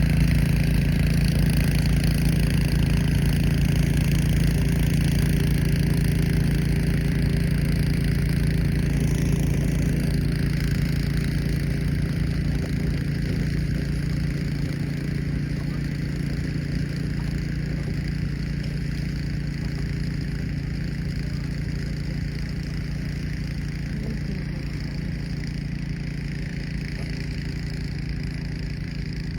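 Gasoline snowblower engine running steadily, growing slowly fainter as it moves away.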